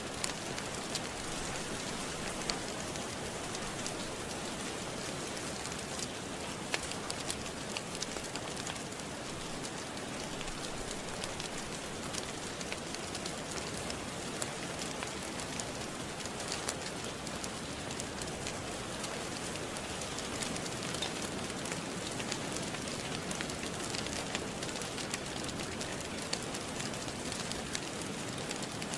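Steady rain mixed with a crackling wood fire: an even hiss of rain, with scattered sharp pops and crackles.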